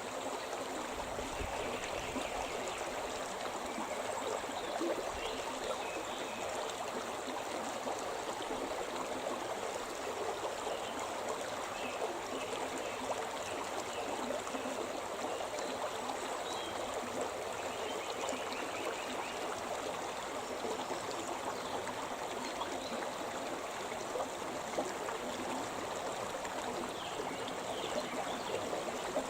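The Shimna River flowing, a steady even rush of running stream water.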